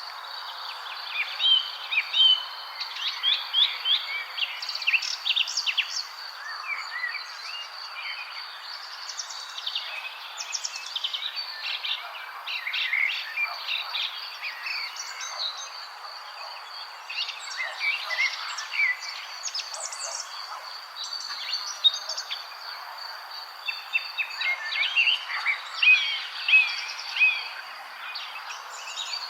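Several birds chirping and singing in quick clusters of short notes and trills, over a steady high insect trill and a soft background hiss.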